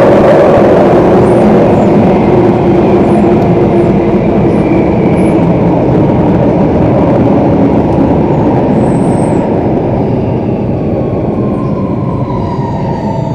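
Singapore MRT train running through a tunnel with a dense rumble, slowly easing off. Near the end a faint motor whine falls in pitch as the train slows.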